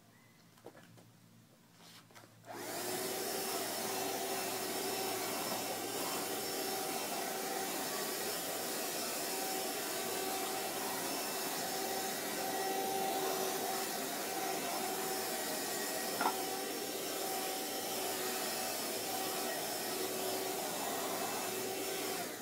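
Vacuum cleaner switched on about two and a half seconds in, then running steadily with a motor whine over its rushing air, and shut off near the end.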